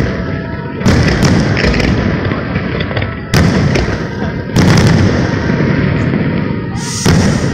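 Aerial fireworks shells bursting: five loud booms at uneven intervals, each trailing into a long rumbling echo.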